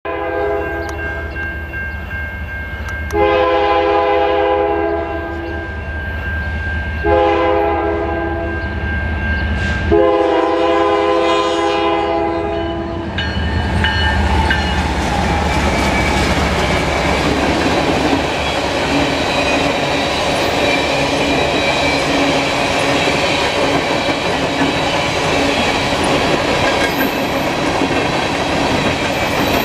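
A diesel freight locomotive's air horn sounds a series of chord blasts as the train nears a crossing, a fainter one first, then three loud ones, the last held longest, ending about thirteen seconds in. Then the GE ES44DC and EMD SD70M-2 locomotives' diesel engines rumble past, followed by steel open-top hopper cars rolling by with steady wheel clatter.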